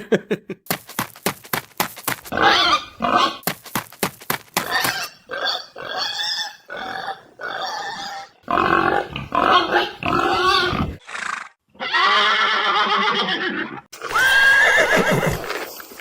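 Horse calls: a run of quick clicks in the first few seconds, then a series of neighs and whinnies, one long call with a sliding pitch near the end.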